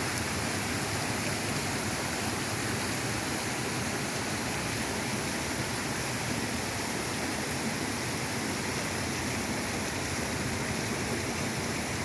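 Rain-swollen waterfalls and creek rushing hard: a steady, unbroken rush of water.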